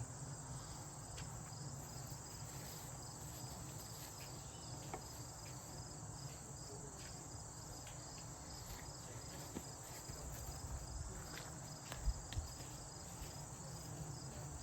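Insects chirping steadily in a rapid, even rhythm, with a few light clicks and knocks scattered through, the loudest about twelve seconds in.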